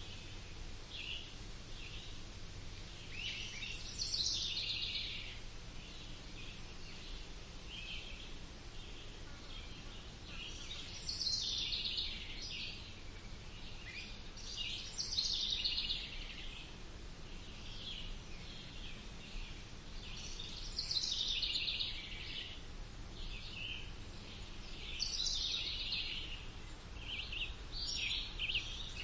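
Songbirds singing in a wood: several chirping, trilling phrases every few seconds, over a faint steady low background hum.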